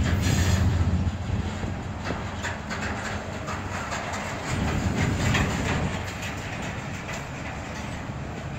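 Double-stack intermodal freight train's well cars rolling past: a steady low rumble of steel wheels on rail with irregular clacks. It is louder in the first second and again about five seconds in.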